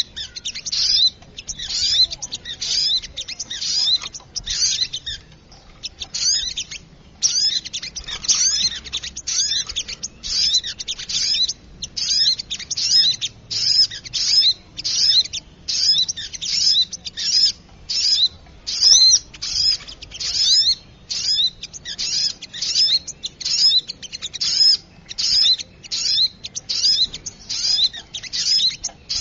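Brown-throated sunbirds (sogok ontong) calling in a busy, continuous chatter of short, high, sharp phrases, nearly two a second: a lure call for trapping small birds.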